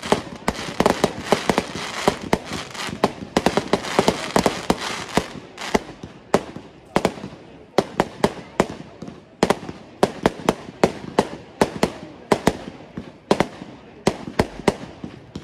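Aerial fireworks bursting in rapid volleys of sharp bangs and crackle, densest in the first five or six seconds, then thinning to clusters of separate reports.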